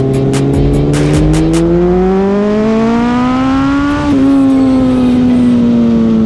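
Kawasaki Z1000J's air-cooled inline-four engine heard onboard at racing speed, its note rising steadily as the bike accelerates through a corner. About four seconds in the note breaks briefly, then falls slowly as the revs come down.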